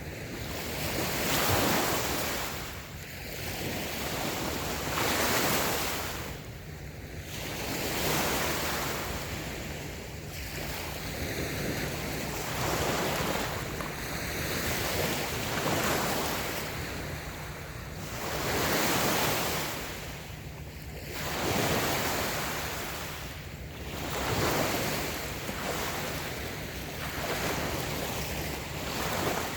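Light waves washing onto a sandy beach, each one swelling and falling away every three to four seconds.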